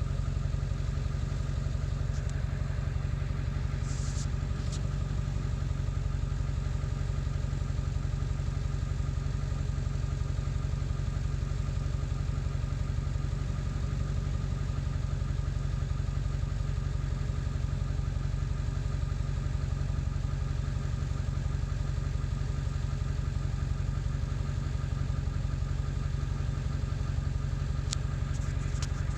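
Ford 7.3 L Powerstroke V8 turbodiesel idling steadily, with a couple of brief high clicks about four seconds in and near the end. The idle is rough even after a new ICP (injection control pressure) sensor, which the owner says is still not running great.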